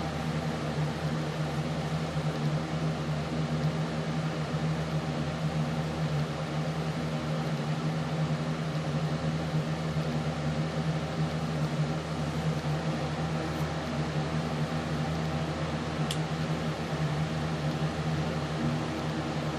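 Steady low hum of a running machine, unchanging throughout, with one faint click about sixteen seconds in.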